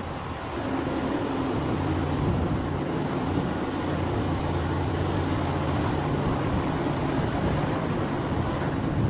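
Large mining excavator's diesel engine working under load, a steady low drone that grows louder about a second in and then holds.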